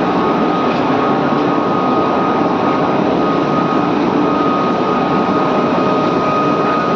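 Steel-melting furnace in a melting shop, running with a loud, steady roar and a thin, steady high hum over it.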